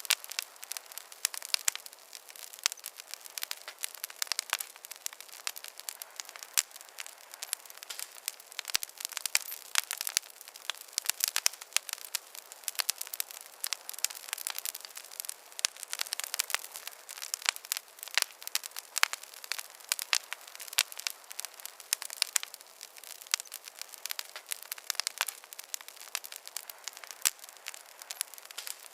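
Wood fire crackling steadily: dense, irregular sharp pops and snaps over a soft hiss, with no low rumble.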